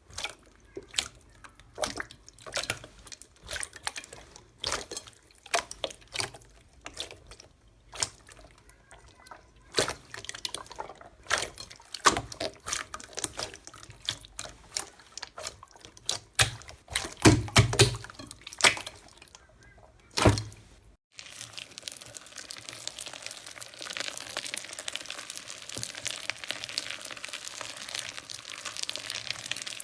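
Slime being squeezed and worked by hand, giving irregular wet pops and clicks, a few of them louder. About two-thirds of the way through it cuts to a dense, steady crackling.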